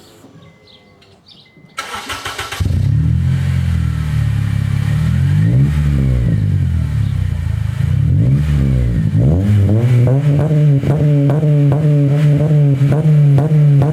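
Honda Accord CL9 engine cranked by the starter and catching about two seconds in, then running loud through an aftermarket Greddy Evo2-replica exhaust with an OBX Racing Sports Evo muffler. Its speed rises and falls twice, then settles to a steady idle.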